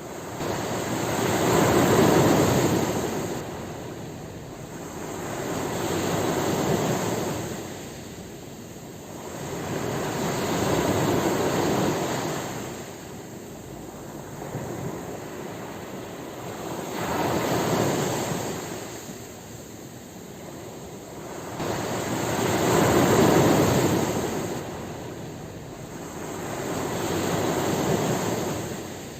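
Ocean waves breaking on a shore, each surging up into a rush of surf and washing back. About six waves, one every four to six seconds, the first and the fifth the loudest.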